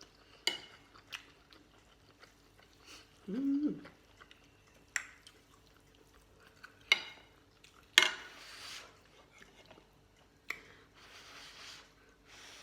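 Someone eating noodle soup: scattered sharp clicks of a spoon or chopsticks against the bowl, chewing, and a couple of short hissing stretches, with a brief closed-mouth 'mm' about three and a half seconds in.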